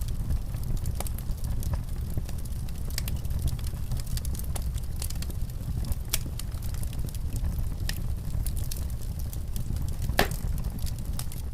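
Wood fire in a fireplace crackling: sporadic sharp pops and snaps over a steady low rumble, with one louder pop near the end.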